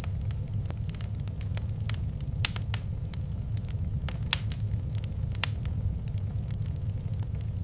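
Fireplace fire crackling, with frequent small pops and a few sharper snaps, over a steady low rumble.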